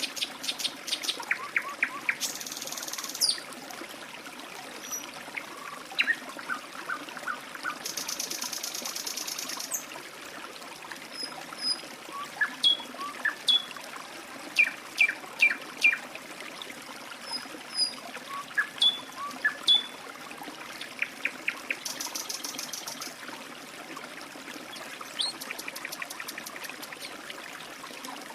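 A trickling stream running steadily, with birds chirping over it again and again, and now and then a high, buzzy trill lasting about a second.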